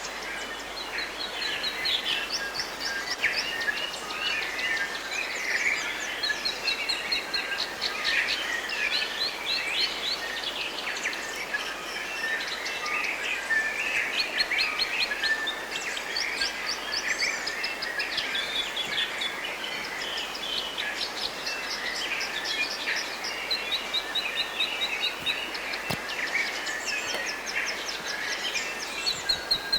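A forest bird chorus: many songbirds calling and singing over one another without pause, with repeated fast trills of short, high notes.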